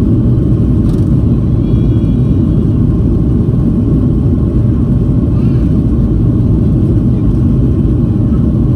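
Steady, loud low rumble of a Boeing 737-800's CFM56-7B turbofan engines and airflow heard from inside the passenger cabin.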